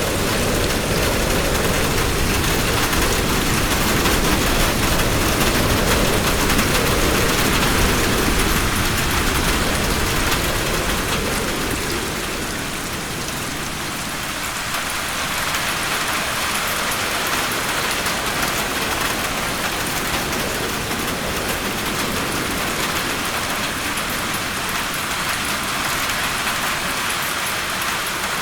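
Heavy rain falling steadily, with a low rumble underneath that is stronger in the first half and eases off about halfway through.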